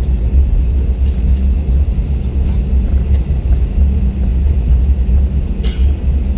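Steady low rumble of jet engines and airframe heard inside an Airbus A320-family airliner cabin, with two short rattles, one a couple of seconds in and one near the end.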